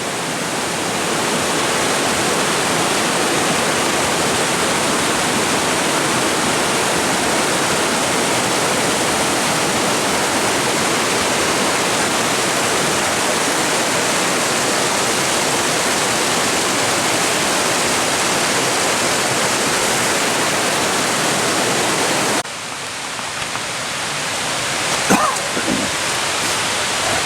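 Steady rush of water from a small waterfall on a creek. About three-quarters of the way in it cuts suddenly to a quieter rush of water.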